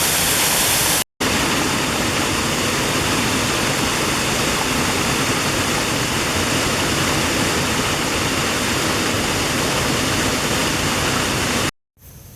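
Waterfall: a steady rush of falling water, cutting out briefly about a second in and again near the end.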